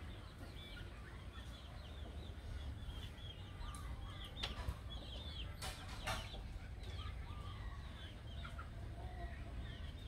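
Birds chirping: a steady stream of short high chirps, with a few sharp clicks about halfway through over a low rumble.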